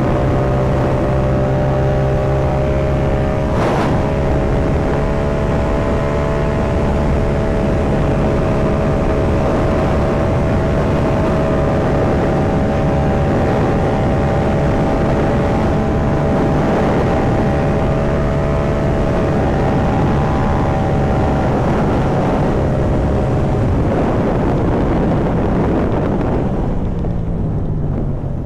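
Yamaha MT-07's parallel-twin engine running at a steady cruising speed over a haze of wind and road noise. Near the end the throttle eases off and the engine note falls.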